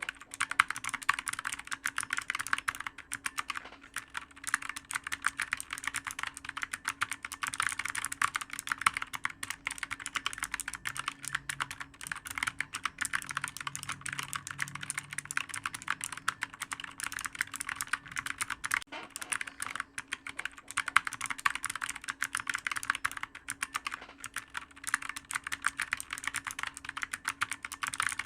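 Fast, continuous typing on a clicky computer keyboard, many keystrokes a second, broken by a few brief pauses, over a faint steady hum.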